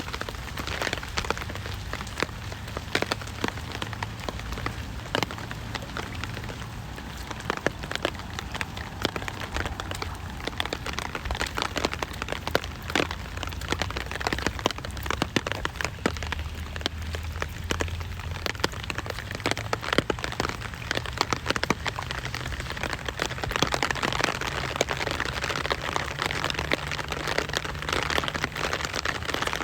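Rain falling steadily on a hard surface, a constant hiss with many sharp individual drop ticks.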